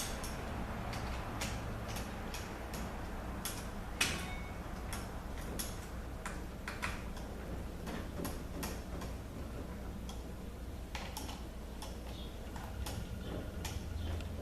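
Scattered light clicks and taps of small metal parts being handled while the manual valve is fitted to a ZF 6HP26 transmission valve body, over a low steady hum.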